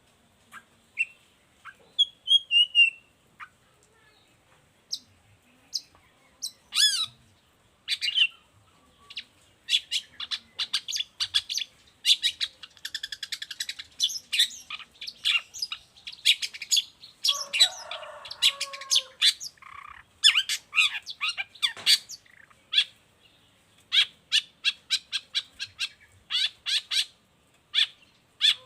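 Long-tailed shrike (cendet) singing vigorously: sharp, high chattering notes delivered in quick runs with short pauses, growing faster and denser about a third of the way in, with a brief lower, harsher phrase in the middle.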